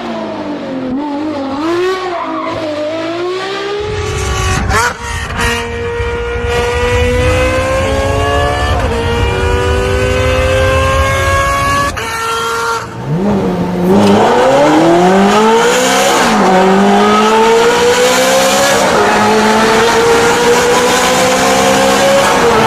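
Ferrari engine running at high revs under hard acceleration. Its pitch rises steadily through the gears and drops sharply at each quick upshift, about four times. The note changes abruptly about 4 s in and again near 13 s, where a different clip cuts in.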